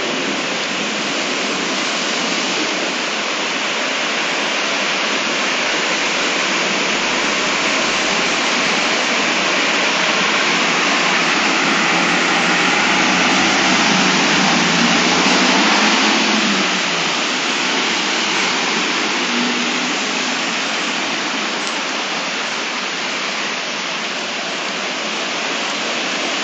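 Torrential downpour: heavy rain pouring steadily as a dense hiss, swelling a little just past the middle.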